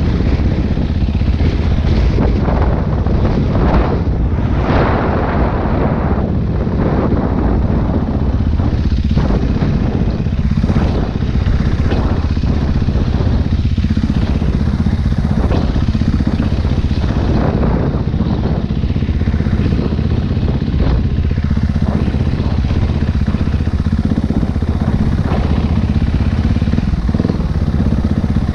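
Dirt bike engine running steadily and loudly, a continuous low motorcycle drone.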